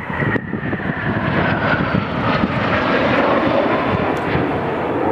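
A fixed-wing airplane flying past, its engine noise swelling to a peak about three seconds in, with a thin whine that falls slowly in pitch.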